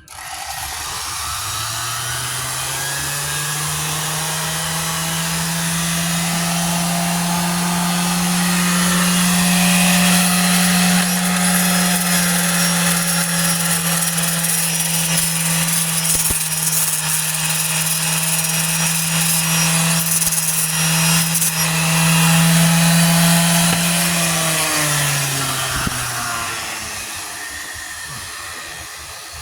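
Handheld power tool motor spinning up, running steadily with a scraping noise for about 24 seconds, then winding down near the end. It is most likely the cordless drill with a wire wheel being run against clogged sandpaper to clear the gummed-up body filler.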